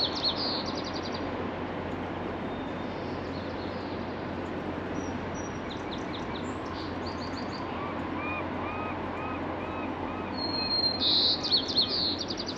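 A songbird singing. Its short high phrase, a thin steady note followed by a buzz and a fast trill, comes at the start and again, louder, near the end, with a run of lower repeated notes in between. A steady background hum lies under it.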